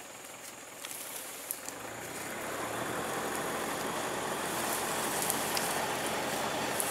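Truck engine running, growing louder about two seconds in and holding there.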